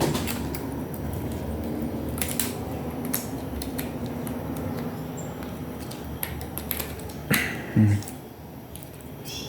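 Small clicks and light knocks of parts being handled while a stereo is taken apart, with a louder low thump near the end.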